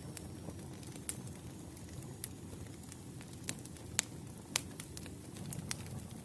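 Wood campfire burning with a low steady rumble of flame and scattered sharp crackles and pops of the logs, two louder pops near the middle.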